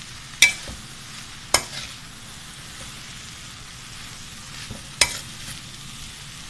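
Chicken and vegetable filling sizzling in oil in a kadai while being stirred with a spatula. Three sharp clacks of the spatula striking the pan stand out, one near the start, another about a second later, and a third near the end.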